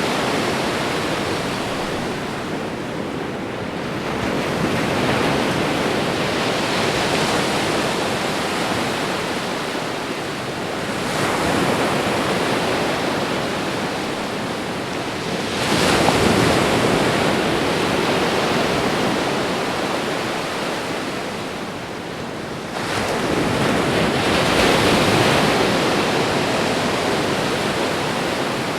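Ocean waves breaking and washing on the shore in a continuous rushing surf, swelling about every five to seven seconds, the strongest surge about sixteen seconds in.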